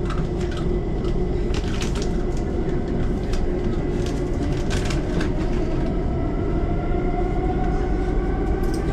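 Electric multiple-unit train running, heard from inside the carriage: a steady rumble with scattered wheel-on-rail clicks. From about six seconds in, a traction-motor whine rises in pitch as the train picks up speed.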